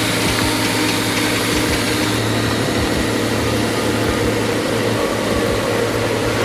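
Heavy haul truck engine running steadily at a constant pitch, under a wash of road and wind noise.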